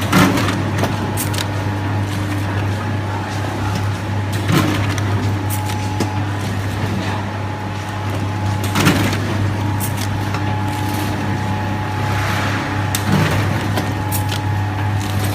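Automatic cup drinking-water filling machine running: a steady motor hum with a sharp knock about every four and a half seconds as it cycles, and a short hiss near the end.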